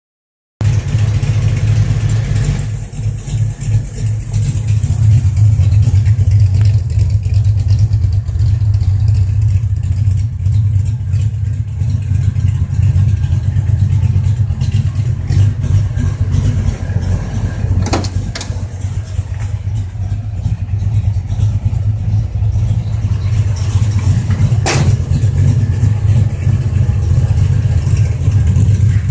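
1984 Ford Mustang GT's 5.0 L V8, fitted with a Comp Cams camshaft and aftermarket mufflers, idling steadily through its exhaust. Two short clicks are heard, one past the halfway point and one near the end.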